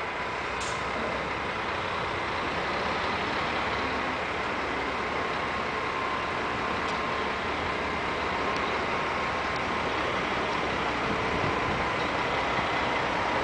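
Scania 360 truck running steadily: an even engine and road noise with a faint steady whine, unchanging throughout.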